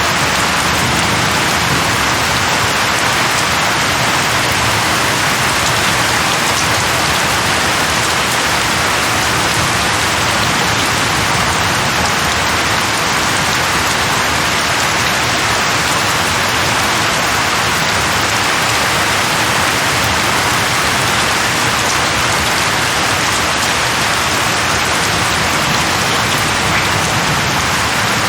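Steady heavy rain falling and splashing on surfaces, an even hiss with no breaks.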